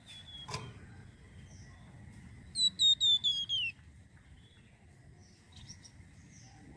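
A songbird singing a quick run of about five sharp whistled notes, each with a downward hook, the last one sliding lower. Fainter chirps come before and after it, and there is a single sharp click shortly before the phrase.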